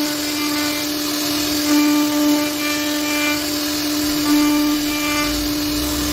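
CNC router spindle running with a steady high-pitched whine as the bit carves wood. Brighter overtones come and go every couple of seconds.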